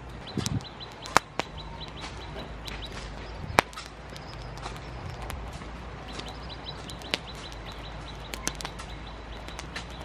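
A bird chirping in short quick runs of high chirps, with a few sharp knocks scattered through. The loudest knocks come a little after one second in and at about three and a half seconds in.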